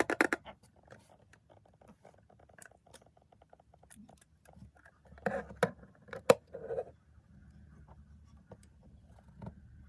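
Eyeshadow palette and its packaging handled and opened close to the microphone: a burst of sharp clicks and taps at the start, a run of quick light ticks, then a louder cluster of clicks and knocks about five seconds in.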